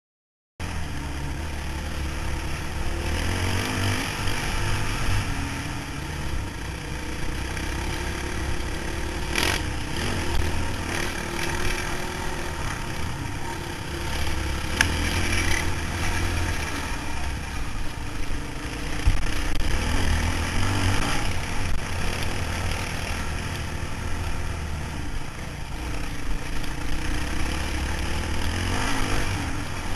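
Motorcycle running on the move, its sound cutting in suddenly about half a second in. A deep rumble swells and fades every few seconds under a steady hiss.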